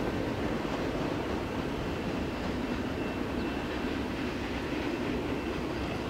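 Boxcars of a freight train rolling away along the track: a steady rumble of steel wheels on rails. A faint high wheel squeal comes and goes.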